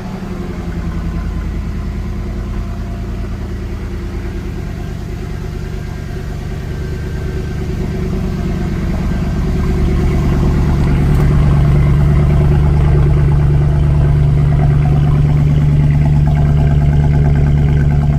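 Mercedes C63 AMG V8 on its stock exhaust, idling just after a cold start following a week unused. The steady idle grows louder about halfway through, then holds.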